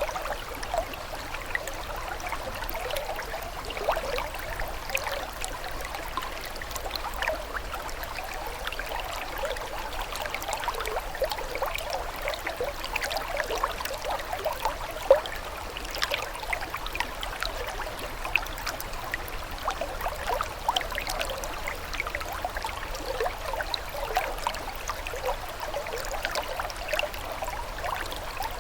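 Water flowing and trickling steadily, a constant light babble of many small splashes and plinks, with no deep roar beneath it.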